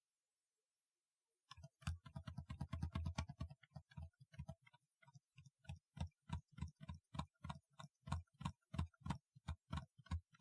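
Typing on a typewriter-style keyboard: a quick run of keystrokes starting about a second and a half in, then slower, separate key presses about two or three a second.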